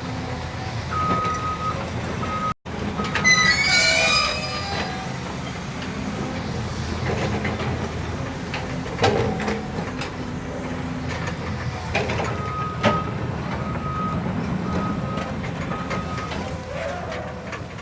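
Diesel dump truck and trailer running under load while tipping sand, a loud steady rumble. A beeping alarm sounds in short pulses, in a run early on and again later, and a high metallic squeal rises about three seconds in.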